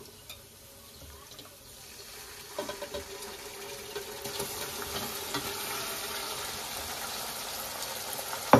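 Marinated chicken pieces sizzling as they go into hot oil with fried onions, the hiss growing louder as more chicken goes in, with a few clinks of a slotted steel spoon against the pot and a sharp knock near the end.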